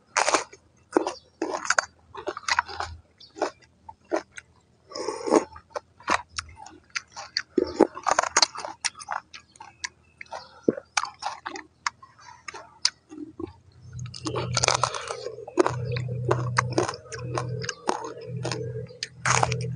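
Close-up chewing and crunching of a raw green vegetable and crab in the mouth, an irregular run of wet, crisp bites. In the last few seconds a low steady hum sounds under the crunching.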